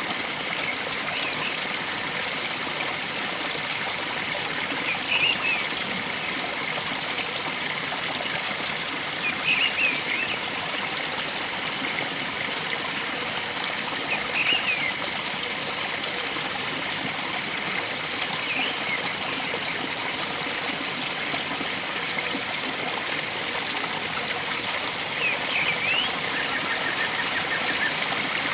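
Steady rushing of a flowing forest stream, with a short bird call every four or five seconds over it.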